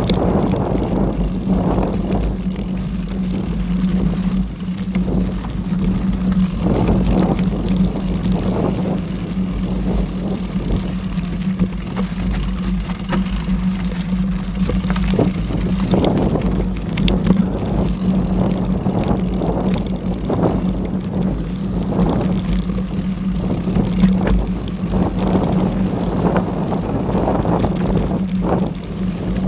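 Mountain bike being ridden along a dirt trail: wind rumbling on the microphone, a steady hum, and frequent rattles and knocks from the bike jolting over bumps.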